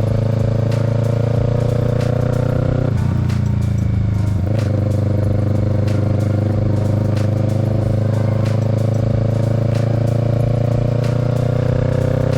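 Kawasaki Z650's parallel-twin engine running on the move, its revs climbing slowly, dropping about three seconds in, then climbing steadily again.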